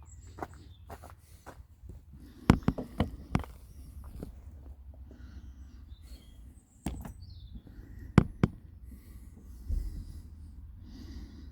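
Scattered sharp knocks and clatters, a cluster of loud ones about two and a half seconds in and more around seven and eight seconds, over a low steady rumble.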